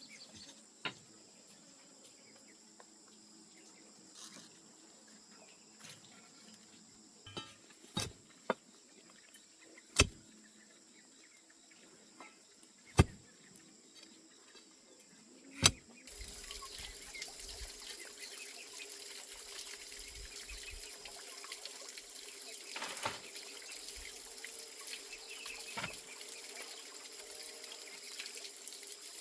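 A handful of sharp single knocks, several seconds apart, the loudest three near the middle. Then, a little past halfway, a steady rush of running water sets in.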